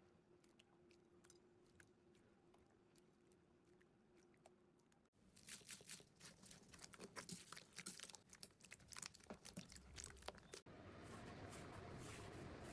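Slime being squeezed and pressed by hand, making crackling, popping clicks. Faint at first, then much louder and denser after an abrupt cut about five seconds in, with a thicker, more continuous crackle after another cut near the end.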